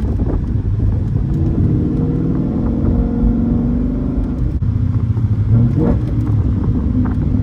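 Car engine running while driving, a steady low rumble whose pitch rises a little a couple of seconds in as the car accelerates.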